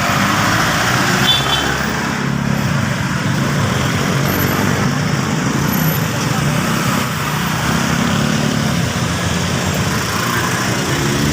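Road traffic noise from congested, slow-moving traffic: a continuous hum of idling and running vehicle engines, with a brief high beep about a second in.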